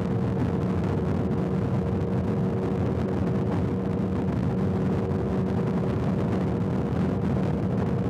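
Motorcycle engine running at a steady cruising speed, its pitch holding constant, mixed with wind and road noise.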